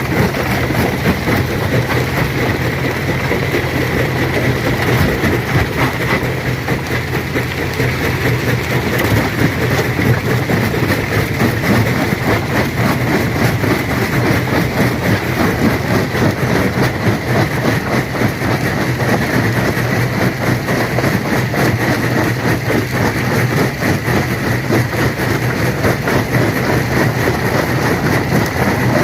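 Stone crusher running, a steady heavy hum under a continuous rapid clatter of rock being broken.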